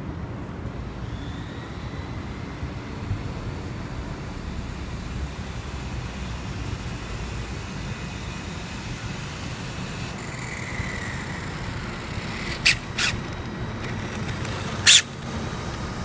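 Steady outdoor road-traffic rumble, with a faint rising whine about ten seconds in and three short, sharp hisses near the end.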